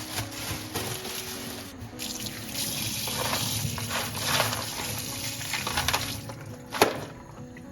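Water running from a kitchen tap and splashing in the sink, growing fuller partway through, with a single sharp knock near the end. Soft background music under it.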